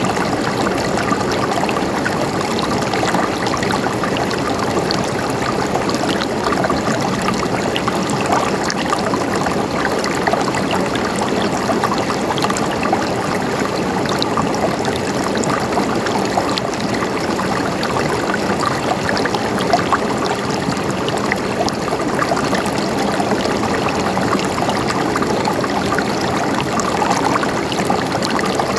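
Flowing water gurgling steadily, with faint scattered splashes and drips.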